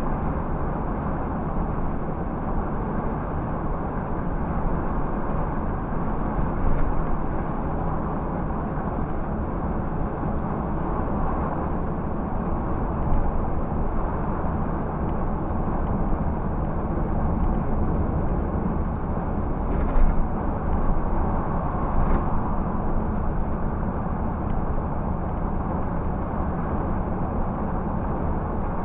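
Scania 360 coach cruising steadily: engine and road noise as a constant low drone, with a few short clicks about seven seconds in and twice around twenty seconds in.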